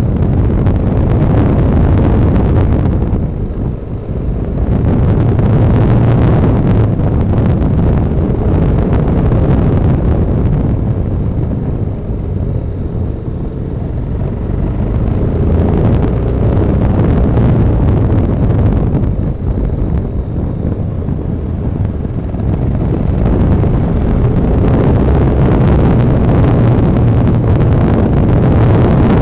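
Honda NX650 Dominator's single-cylinder engine running under way, mixed with wind rushing over the microphone. The sound drops back three times, around four, twelve and twenty seconds in, and builds up again after each.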